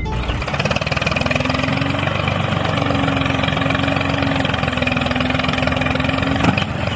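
A motor running steadily with a fast, even pulse and a faint steady hum that cuts off shortly before the end.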